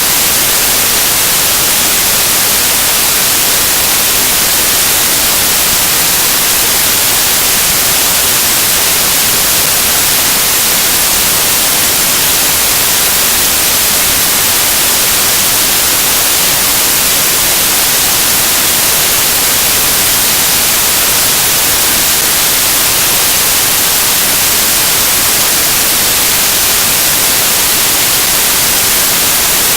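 Loud, steady static hiss: an even, unchanging electronic white-noise signal, strongest in the high pitches, with no other sound over it.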